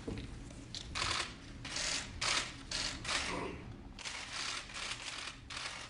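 An irregular run of about a dozen short scratchy clicks and rustles over a faint, steady low hum.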